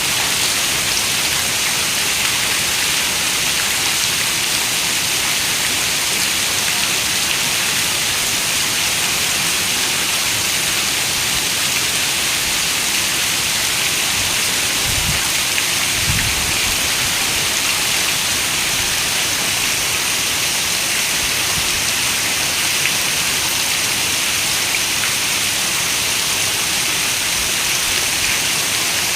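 Steady rain, an even, bright hiss with no let-up, with a brief low rumble about halfway through.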